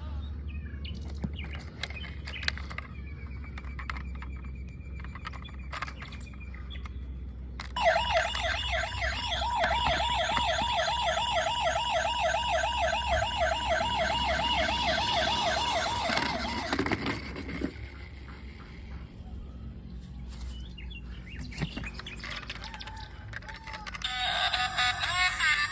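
Toy vehicle's electronic siren sounding with a rapid warble for about eight seconds, starting about eight seconds in, over a steady low hum. Scattered clicks come before it.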